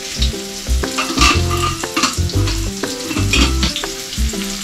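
Onion and tomato sizzling as they fry in oil in a wok, with a few metal clinks, under background music with a regular bass pulse.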